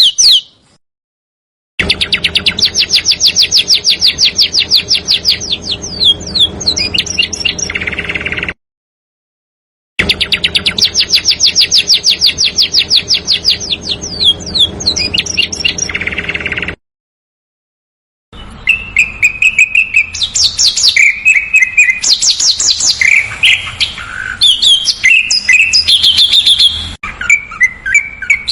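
Recorded songbird song: a rapid trill of high notes ending in a few slurred notes, played twice with short silent gaps between, then a longer, varied song of quick mixed high notes.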